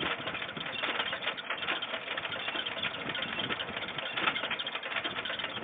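Old gas pump running: a steady mechanical whir with a fast, even rattle.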